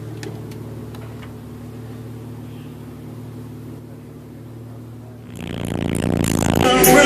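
A steady low hum, then about five seconds in a car audio system comes in loud and stays loud, its music sounding distorted.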